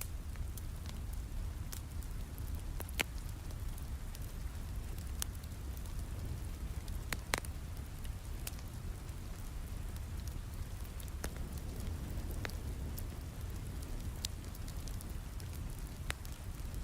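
Steady rain with a low rumble, over a crackling wood fire whose sharp pops come at irregular intervals, the loudest about 3 and 7 seconds in.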